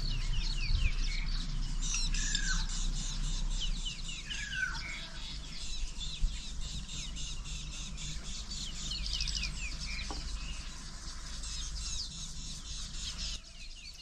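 Wild birds calling: many short, quick chirps high up, with a few lower downward-sliding calls mixed in, over a low steady rumble.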